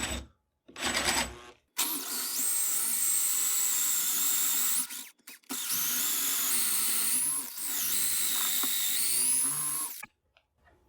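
Electric drill boring a large hole into a walnut gunstock: a short burst, then two long runs with a brief stop about five seconds in. The motor whine dips in pitch several times as the bit loads up in the wood, and the drill stops about a second before the end.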